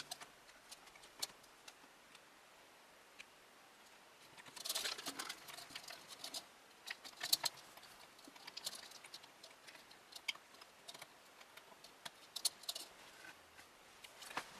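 Irregular light clicks, taps and rattles of small PC hardware being handled, with a denser cluster of clicks about five seconds in.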